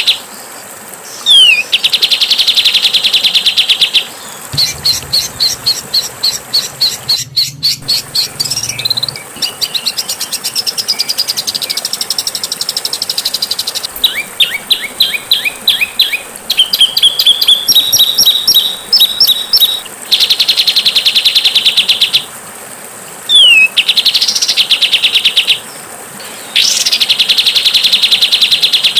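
Songbird song from a bird-song training track: harsh, very fast buzzing trills two to three seconds long, several opened by a short falling note, alternating with quick series of chirps and rising whistles.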